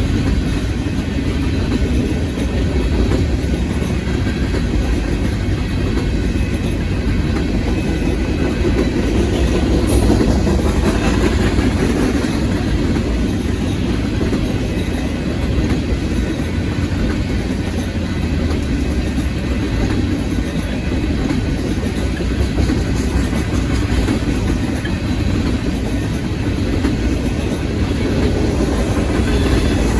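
Manifest freight train cars rolling steadily past a grade crossing: a continuous low rumble of steel wheels on rail with clickety-clack from the rail joints.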